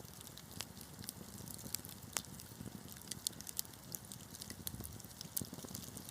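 Wood fire crackling, with irregular sharp snaps and pops over a soft low rumble of burning; the sharpest pop comes about two seconds in.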